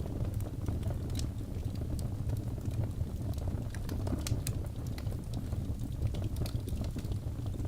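Wood logs burning in a fireplace: a steady low rumble of flame with frequent irregular sharp crackles and pops.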